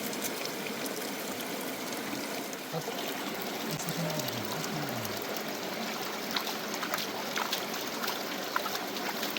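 Water flowing steadily, like a small stream running over stones, with a few light clicks in the second half and a short low falling sound near the middle.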